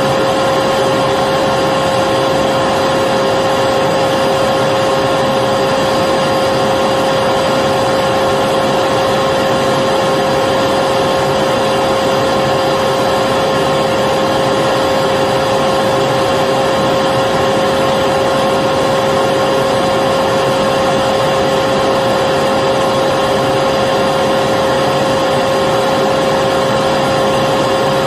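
Electric vacuum cleaner motor running steadily and continuously, a constant whining hum over a rush of air with no change in speed.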